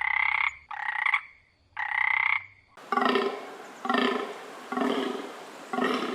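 Animal calls: a run of raspy calls of under a second each, then an abrupt change to a different, deeper call repeated about once a second, each call fading away.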